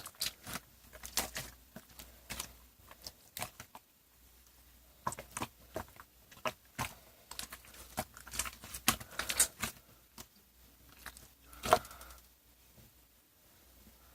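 Irregular clicks and short rustling, crinkling noises of something being handled close by, with a louder knock about twelve seconds in.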